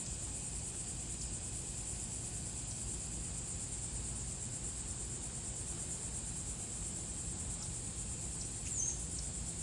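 Steady high-pitched insect chorus droning without a break over a low background rumble, with a brief faint bird chirp near the end.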